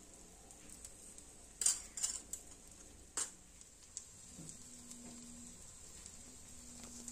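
Egg and bread omelette frying in an oiled nonstick pan: a steady, faint sizzle, with a few sharp clicks of a spoon on the pan in the first half.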